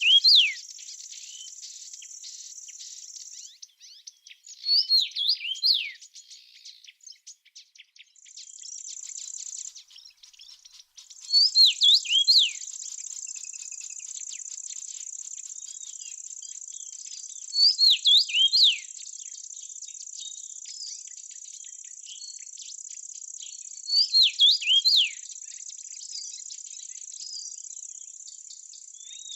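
A songbird repeating a short phrase of quick sweeping whistled notes about every six seconds, over a steady high-pitched insect buzz like crickets. The buzz drops out about four seconds in and again briefly near ten seconds, then runs on.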